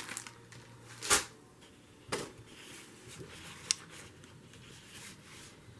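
Desk handling sounds: a few short knocks and rustles of paper and small objects being moved about, the loudest about a second in, with a sharp click a little after halfway.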